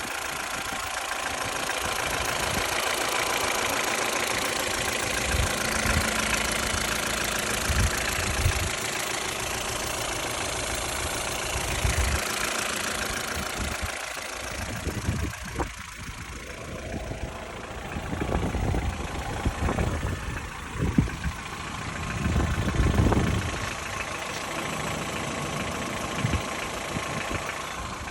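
Ford Fiesta Mk6's 1.6-litre Duratec (Sigma) four-cylinder engine running at about 443,000 km, with a knocking noise that the owner tags as piston slap and a bottom-end knock. Irregular louder low thumps come and go in the second half.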